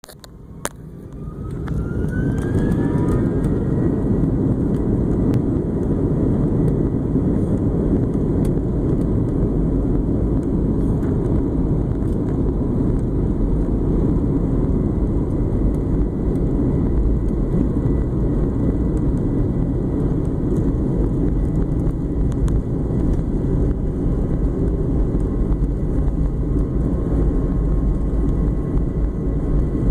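Passenger airplane engines powering up for takeoff and climb: the noise swells over the first two seconds with a whine rising in pitch, then settles into a steady loud roar with a constant whine above it.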